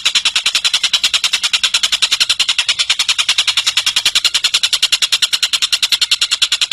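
Tengek cililin bird calling in a long, unbroken high-pitched trill of rapid sharp notes, about a dozen a second.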